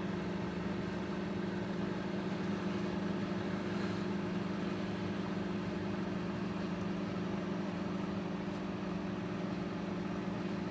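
Microwave oven running: a steady low electrical hum with the fan's faint whir, unchanging throughout.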